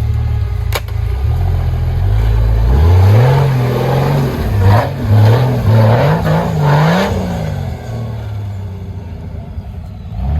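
Supercharged Jeep Wrangler engine running low, then revved several times from about three seconds in, the pitch climbing and falling with each blip before dropping back to a lower, steadier note.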